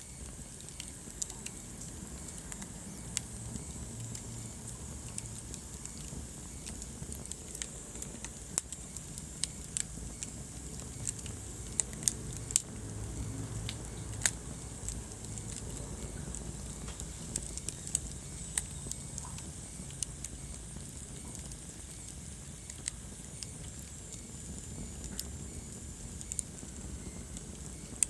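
Wood fire burning steadily with a low rumble of flame and frequent irregular crackles and sharp pops.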